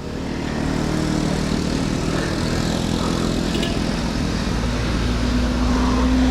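A motor vehicle's engine running steadily close by, over continuous road noise, growing a little louder near the end.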